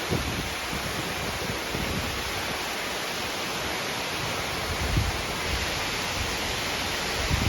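Heavy rain pouring down in a steady, dense hiss, with a few low gusts of wind buffeting the microphone, once near the middle and again near the end.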